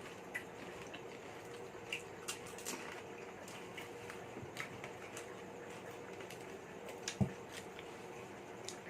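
Quiet pani puri eating: scattered short crisp crunches and small wet clicks as the hollow fried puris, dunked in spiced water, are bitten. A louder pair of knocks comes a little after seven seconds, and a faint steady hum runs underneath.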